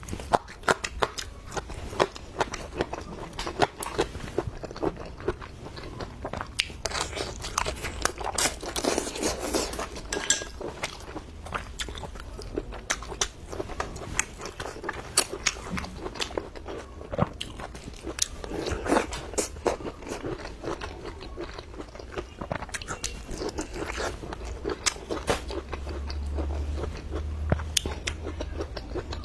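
Close-miked mukbang eating: biting and crunchy chewing of handmade shredded papaya, many sharp irregular crunches.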